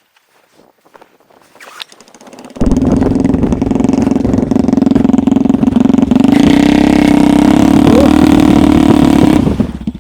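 Homemade snowmobile's engine starting up about two and a half seconds in, then running with a steady beat; it revs higher about six seconds in and drops back just before the end.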